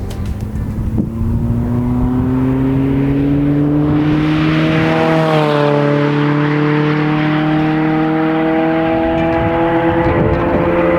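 A 2016+ Mazda MX-5 Miata's four-cylinder engine through a CorkSport aftermarket cat-back exhaust, accelerating with its pitch climbing steadily. About five seconds in, where the exhaust is loudest, the pitch steps down a little and then keeps climbing.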